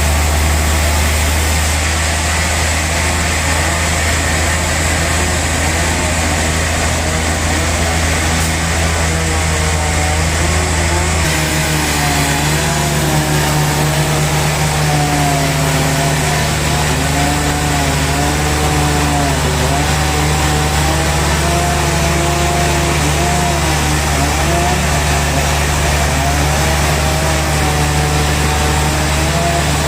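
Large sawmill saw machine running steadily while sawing a big log. Its hum shifts about eleven seconds in, and a wavering tone rises and falls above it from then on.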